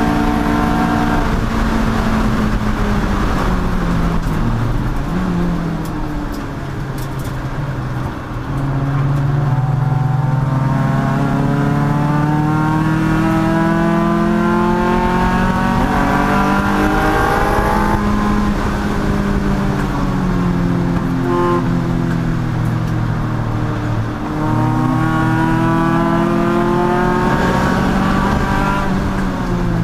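Race car engine at full throttle, its pitch climbing steadily through long pulls and dropping sharply three times as the driver lifts or shifts, then climbing again.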